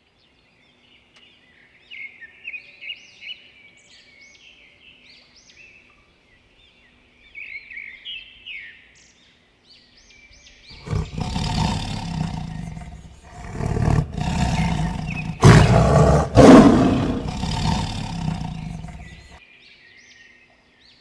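Birds chirping in short gliding calls, then a tiger roaring several times from about halfway through. The roars are loud and deep, are loudest about three quarters of the way through, and stop shortly before the end.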